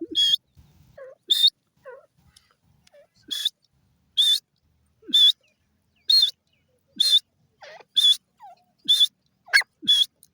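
Grey francolin (desi teetar) calling: a short, shrill, high note repeated about once a second, with softer, lower chirps in between.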